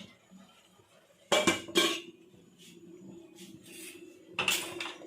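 Metal kitchen utensils clanking against pots and dishes: two sharp clanks about a second in, then another near the end, over a faint steady hum.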